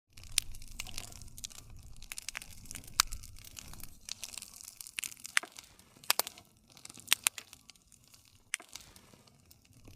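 Wood campfire crackling, with sharp pops scattered irregularly through a hissing crackle and a low rumble beneath.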